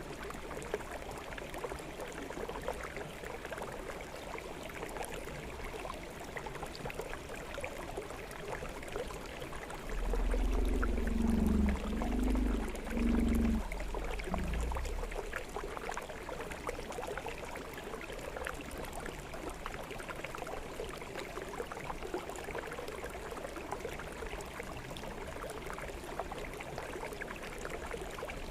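Small forest stream flowing steadily. About a third of the way in, a low rumble of unclear source rises for about five seconds and is the loudest thing heard.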